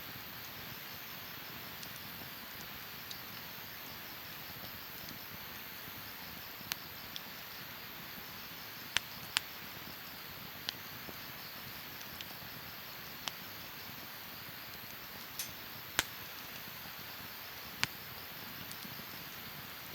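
Wood campfire crackling: sharp, scattered pops every second or few over a steady soft hiss.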